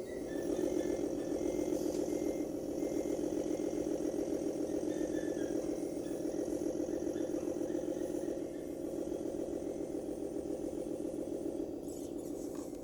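A 1:14 scale RC MAN 8×4 dump truck running, its engine sound steady with a fine pulsing rhythm. There is a brief knock near the end.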